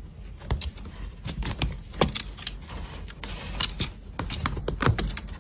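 Irregular light clicks, knocks and rattles, some of them sharp, over a low rumble.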